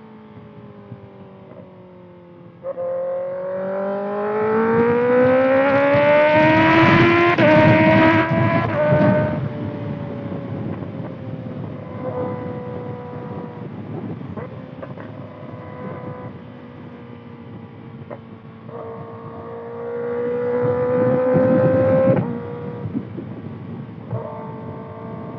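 2025 Kawasaki ZX-6R's 636 cc inline-four through a Voodoo Racing slip-on exhaust, pulling up through the revs under hard acceleration for several seconds, then settling to a steadier, lower engine note. A second, shorter pull near the end cuts off suddenly.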